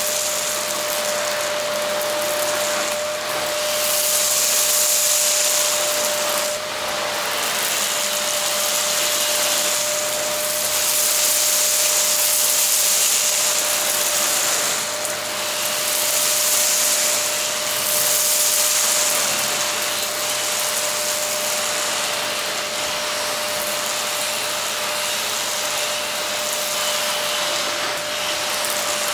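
Silvercrest SBBK 700 B2 700-watt canister vacuum cleaner running steadily, a constant whine over a rushing hiss that swells and eases every few seconds.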